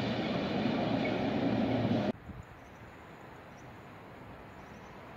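Freight train of tank wagons rolling past, a steady rumble that cuts off abruptly about two seconds in, leaving a quiet outdoor background with a few faint high chirps.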